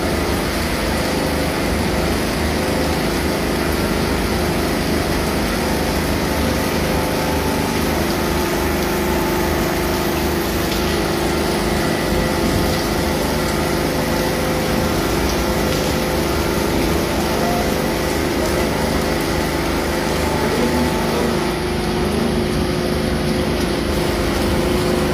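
Heavy monsoon rain falling, a steady even hiss, with a steady machine hum running beneath it.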